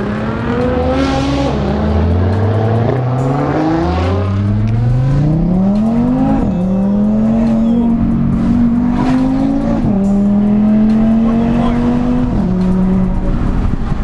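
Sports car engine heard from inside the cabin while accelerating through the gears. The pitch climbs and drops back at each upshift, with the longest hard pull about four to six seconds in, then steadier running with further shifts near the middle and toward the end.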